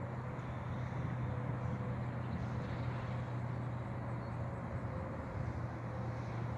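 Steady low hum with an even wash of outdoor background noise, like traffic nearby; no distinct events stand out.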